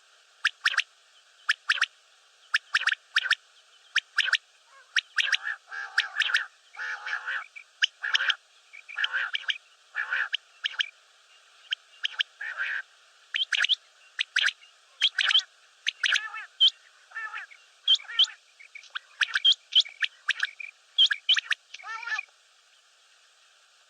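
Common quail calling: short, sharp notes in quick clusters of two or three, repeated over and over, with some rougher, lower calls mixed in about five to eight seconds in and again just before the calling stops near the end.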